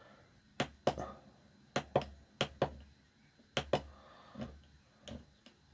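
Buttons on a DAB radio being pressed, a string of sharp clicks at irregular intervals, several in quick pairs.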